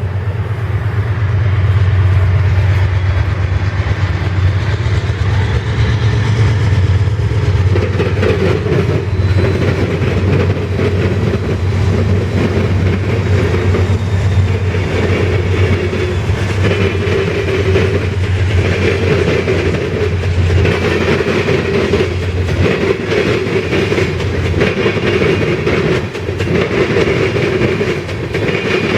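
Freight train passing: the low, steady running of GE C44-9W diesel locomotives, then from about eight seconds in a growing rumble of ethanol tank cars with their wheels clicking over the rail joints.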